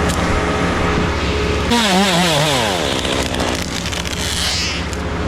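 Two-stroke chainsaw idling, revved briefly just under two seconds in with its pitch swinging up and down, then falling back to idle.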